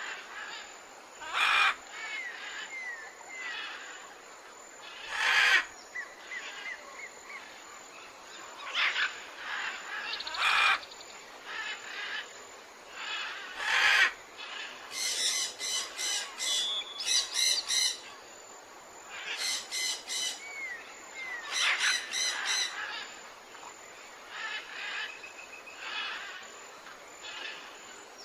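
Birds calling: harsh calls and short rising chirps, with runs of quick repeated notes around the middle.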